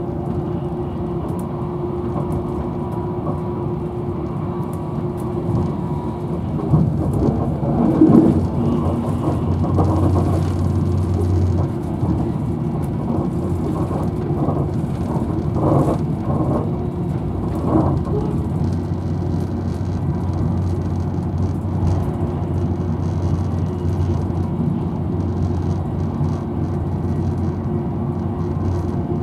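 Interior running noise of a Virgin Trains Class 390 Pendolino electric train at high speed: a steady low rumble of wheels on rail. It grows louder for a few seconds about seven seconds in, with shorter surges around sixteen and eighteen seconds in.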